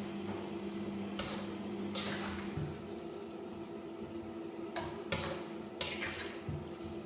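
A cooking utensil knocking and clanking against a pan while the stir-fry is tossed, about five sharp strikes with a short ring after each, over a steady low hum.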